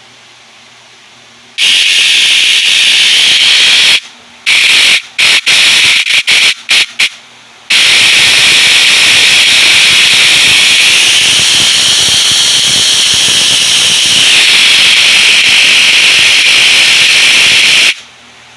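Small electric motor spinning the freshly built V-drive of a model speed boat, a loud high whine. It starts a second and a half in, is blipped on and off several times in quick succession, then runs steadily for about ten seconds, its pitch wavering midway, before cutting off.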